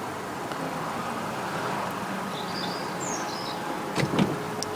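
Volkswagen Eos power-folding hard top running as the roof folds down into the boot: a steady mechanical hum, with a couple of clunks about four seconds in.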